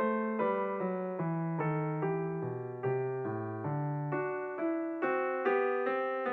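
Background piano music: evenly paced notes struck about two and a half times a second, each ringing and fading before the next.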